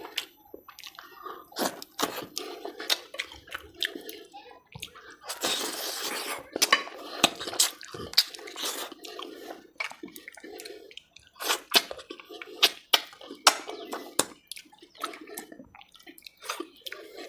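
Close-miked eating: a man chewing mutton curry with wet lip-smacks and mouth clicks, several a second. About five seconds in there is a louder wet sucking sound lasting about a second.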